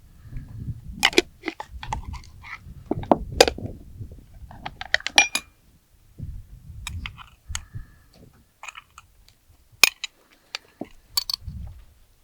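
Irregular clinks, taps and knocks of kitchen utensils and dishes being handled, over low rustling handling noise. A few sharp clinks stand out, about ten seconds in.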